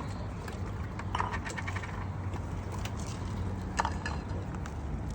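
Boat engine running steadily with a low hum, with scattered knocks and clinks over it.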